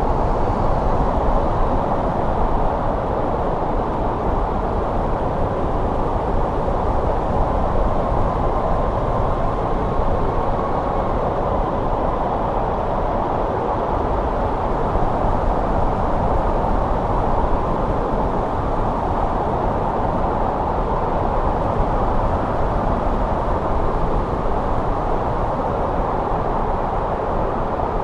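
Snowstorm wind blowing steadily: a dull, low rush with no gusts or breaks.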